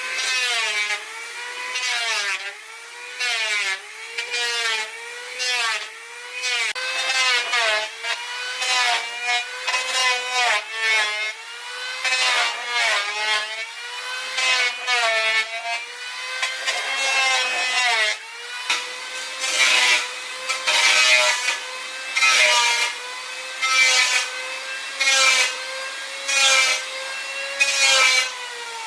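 An electric woodworking tool's motor running steadily while it is worked through wood in repeated strokes. Its pitch dips each time it bites. The strokes come faster in the middle and slower near the end.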